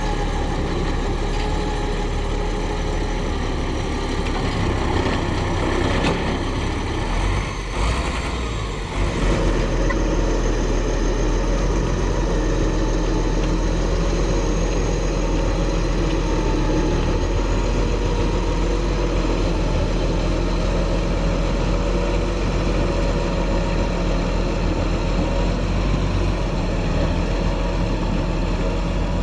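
Diesel engines of heavy construction machinery running steadily. The sound changes abruptly about nine seconds in.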